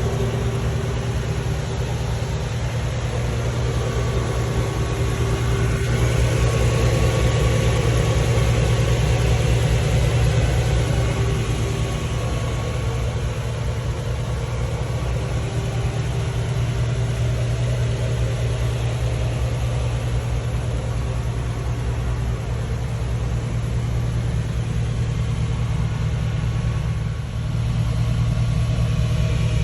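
LS V8 engine swapped into a Jeep Wrangler LJ, idling steadily.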